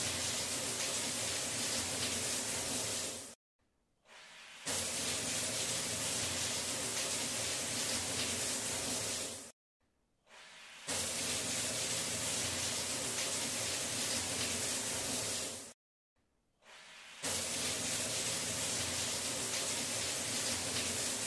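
Onions, green chillies and tomato frying in oil in a nonstick pan: a steady sizzling hiss with a faint low hum under it, cutting out completely for about a second three times.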